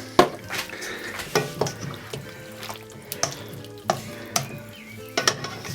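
Chicken and vegetable stir fry being stirred in a hot pan, sizzling gently, with irregular scrapes and taps of the utensil against the pan. The cornflour and water mix has just gone in to thicken the sauce.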